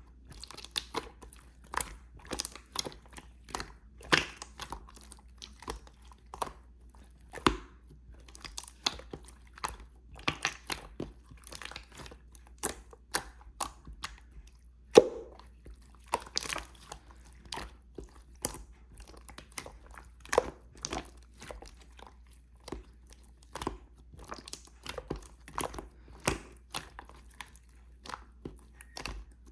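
Hands squishing and pressing clear slime, giving irregular sticky clicks and pops a few times a second, with one louder pop about halfway through.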